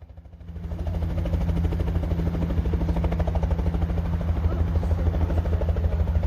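Helicopter running steadily, its rotor blades beating in a fast, even pulse over the engine's low drone; the sound swells up during the first second.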